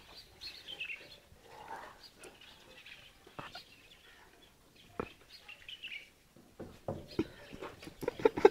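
Birds chirping in short snatches on and off, with a couple of sharp clicks and a louder run of short calls near the end.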